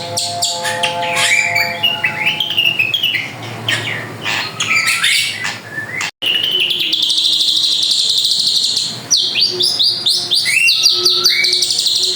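Drongo (srigunting) singing a loud, varied song of quick chirps and rising whistled notes, broken by a brief cut about halfway through.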